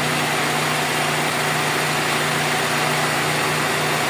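Toyota Corolla GLi's 4A-FE four-cylinder engine idling steadily, an even hum with no change in speed.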